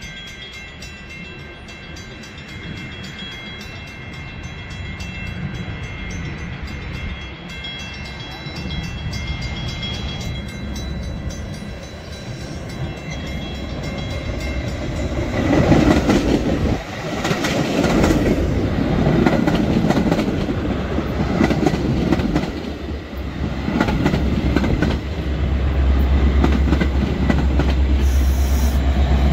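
Railroad crossing bell ringing as a Metra push-pull commuter train approaches, cab car leading, and passes close by. Its wheels clatter over the rail joints, and near the end the diesel locomotive's deep engine rumble comes in as it reaches the crossing.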